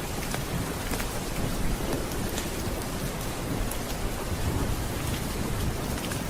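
Steady rain with a low rolling rumble of thunder underneath, with scattered faint clicks throughout.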